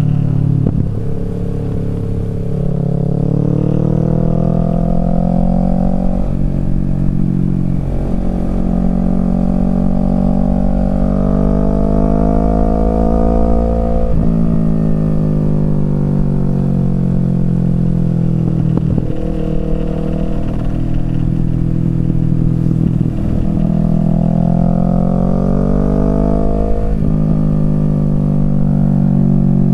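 Kawasaki Z650 parallel-twin engine through a Yoshimura Alpha exhaust, heard from the rider's seat, pulling up through the revs again and again. The revs drop sharply about six seconds in, halfway through and near the end, with a longer slower fall in between as the bike rolls off.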